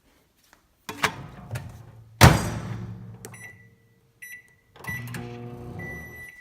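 Microwave oven being operated: a few clicks and a loud knock like the door being shut, a low hum, then a series of short high keypad beeps and a longer beep near the end.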